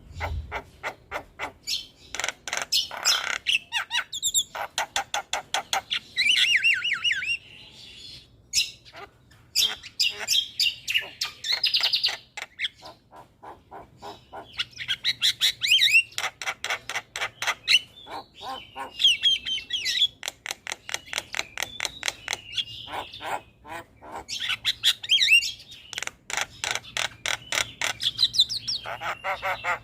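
Javan myna (jalak kebo) singing: phrases of rapid clicking, rattling notes mixed with whistled rising and falling glides, broken by short pauses.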